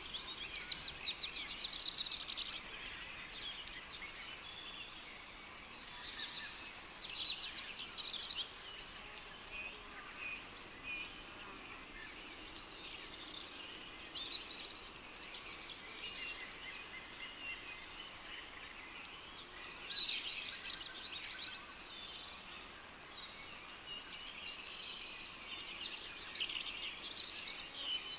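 Rainforest crickets chirping in a steady, even pulsing rhythm, with birds calling now and then over it.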